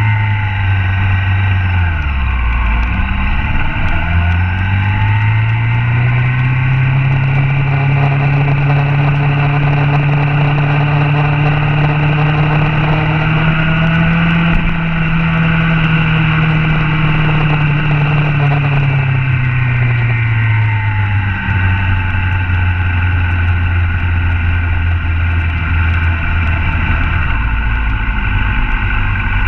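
Motorcycle engine at speed on a race track, heard from a camera mounted on the bike. The engine pitch dips briefly near the start, climbs and holds high through the middle, falls away about two-thirds of the way through, then holds steady at a lower pitch.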